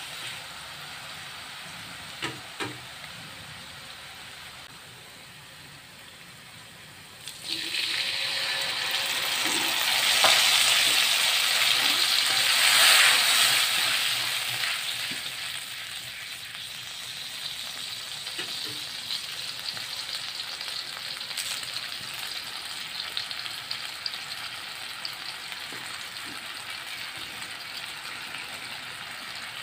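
Oil sizzling in a wok as a metal spatula stirs a spice paste frying in it, with a few short clicks of the spatula against the pan. About seven seconds in the sizzle jumps up sharply and stays loud for several seconds, then settles to a steady fry.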